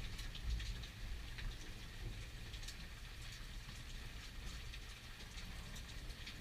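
Steady rain falling, with many separate drops pattering, over a low rumble that swells slightly about half a second in.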